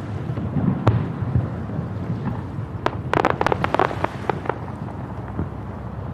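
Aerial firework shells bursting: a sharp boom about a second in, then a rapid crackling of many small pops a couple of seconds later, over a steady low rumble.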